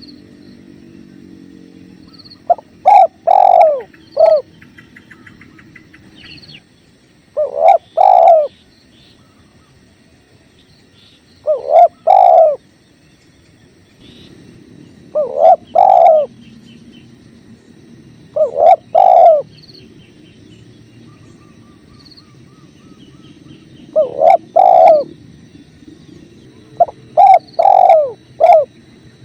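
Spotted dove (tekukur) cooing: a short phrase of three or four low coos, repeated about seven times at intervals of three to four seconds. Under it runs the low steady rush of flowing river water, with faint chirps from small birds.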